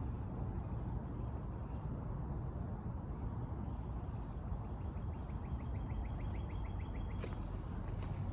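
Outdoor ambience: a steady low rumble, with a faint rapid trill of about eight to ten notes a second starting about halfway through and lasting a couple of seconds.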